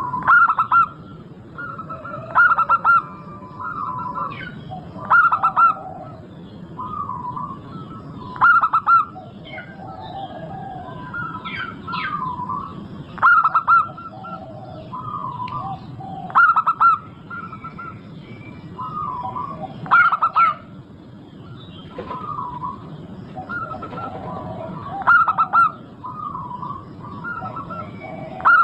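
Zebra doves (perkutut) cooing: a loud, stuttering coo phrase repeats every few seconds, with softer coos between. Fainter chirps of small birds sound higher up.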